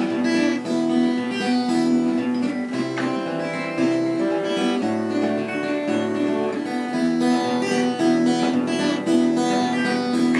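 Acoustic guitar played fingerstyle: a steady picked-chord accompaniment pattern (perebor) of repeating plucked notes over the song's chords, with no singing.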